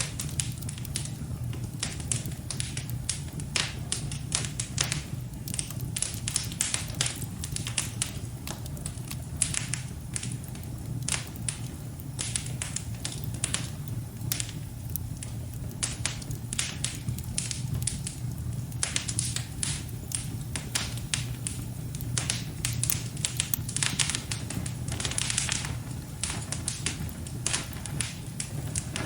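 Fire burning in a fireplace, crackling with many irregular sharp pops over a steady low rumble.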